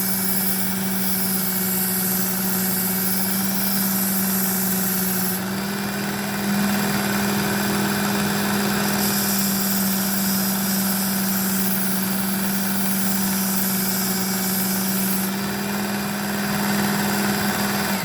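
Work Sharp Ken Onion belt knife sharpener running steadily with a coarse abrasive belt, its motor humming. A knife blade is ground against the belt with a gritty, high hiss that strengthens and eases as the blade is drawn across in passes.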